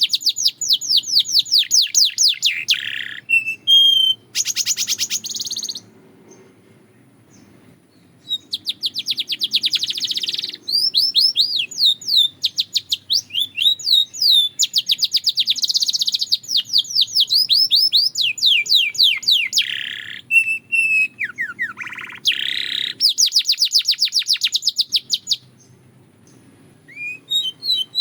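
A canary singing: fast phrases of repeated high downward-sweeping notes, several a second, mixed with trills. The song pauses for about two seconds around six seconds in and again shortly before the end.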